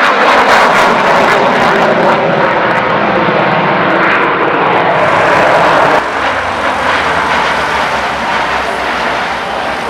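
Aircraft flying by with a loud, steady engine roar. About six seconds in it drops abruptly to a quieter, steadier drone with a low hum.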